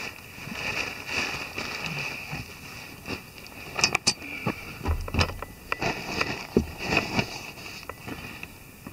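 Handling noise: irregular clicks, taps and rustles, with a cluster of sharp clicks between about four and seven seconds in.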